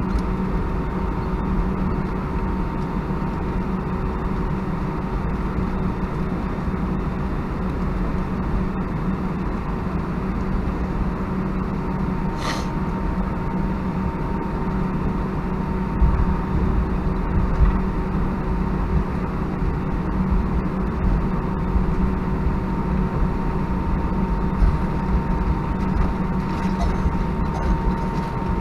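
Cabin noise inside an Airbus A319 on the ground, its jet engines idling with a steady hum and whine. There are a couple of low thumps a little past halfway through, and a brief faint tick a little before them.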